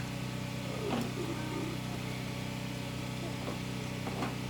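An engine running steadily with a constant low hum, with a few faint knocks over it.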